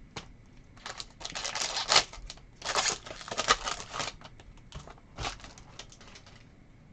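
Trading cards and a foil card-pack wrapper being handled: crinkling and rustling in a few bursts about a second long, with light clicks of cards between them.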